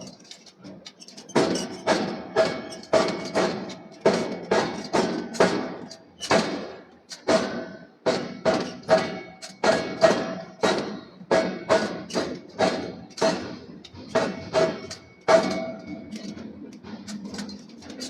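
Hammer blows on hot steel at an anvil, about two a second, each with a short metallic ring. The blows stop near the end.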